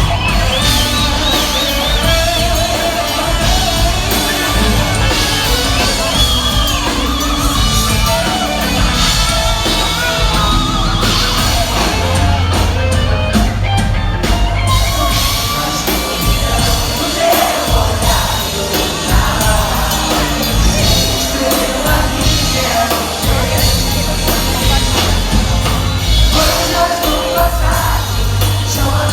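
Pop-rock band playing live with a lead singer over heavy bass and drums, with shouts from the audience.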